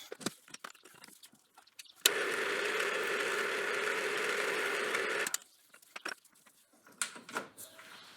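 A lathe running steadily for about three seconds, starting and stopping abruptly, as a welded-up part is turned down; small handling clicks and knocks before and after.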